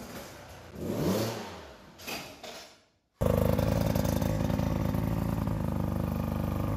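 Dirt bike engine revving in a garage, with one rise and fall in pitch about a second in and a few clatters near two seconds. After a sudden cut it runs loud and steady, with the throttle held open.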